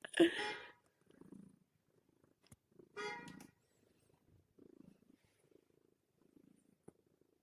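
Calico cat purring softly in repeated breath-length pulses while it kneads. Two short, louder pitched sounds break in, one near the start and one about three seconds in.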